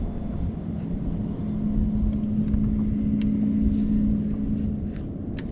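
Boat motor running steadily: a low rumble with a steady hum that sets in about a second and a half in.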